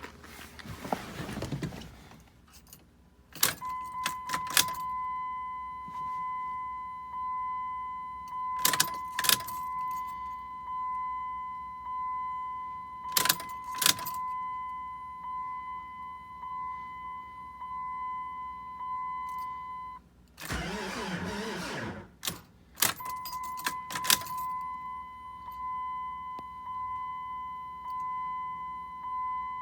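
A vehicle's electronic warning chime sounds as a steady tone, repeating in pulses about every second and a half. Keys jangle and click over it, and it breaks off for a couple of seconds around the middle during a short burst of noise.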